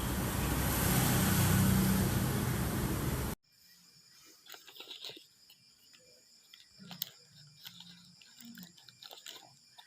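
A steady noisy hiss that cuts off suddenly about three seconds in, followed by faint, scattered small clicks and crackles.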